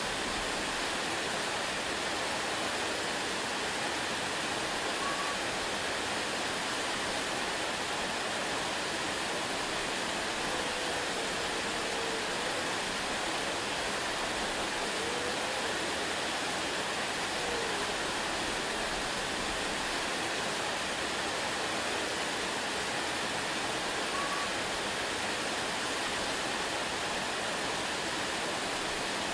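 Waterfall: a steady, even rush of falling water. A few faint short whistle-like notes come through it now and then.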